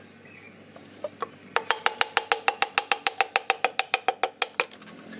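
A quick, even run of sharp metallic clicks, about nine a second, each with a short ringing tone. It starts about a second and a half in and stops near the end.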